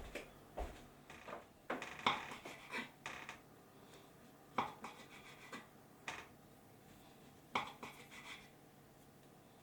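Kitchenware being handled: irregular clinks, knocks and scrapes of dishes and utensils, the loudest cluster about two seconds in.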